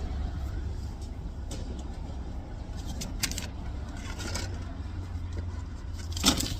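Car engine idling, a steady low hum heard from inside the cabin, with a few small clicks and rustles.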